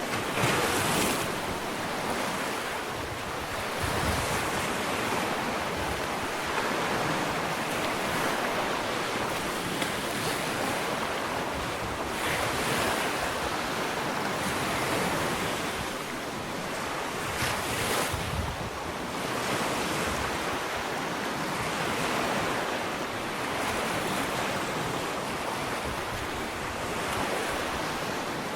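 Ocean waves washing onto a sandy shore, a steady surf wash that swells and eases every few seconds, with wind on the microphone.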